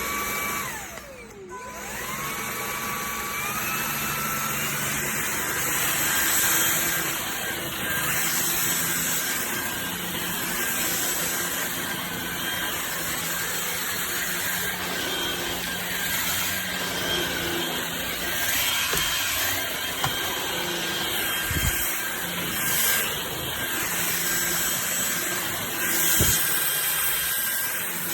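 LEVOIT LVAC-200 cordless stick vacuum's motor running with a steady whine and rush of air. Near the start the whine drops away, then climbs back up in steps over a few seconds as the motor spins up, and holds steady after that. A couple of light knocks come near the end.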